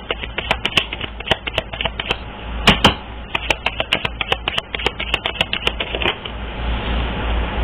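Rapid, irregular clicking and tapping, several clicks a second, dying away about six seconds in to a steady hiss.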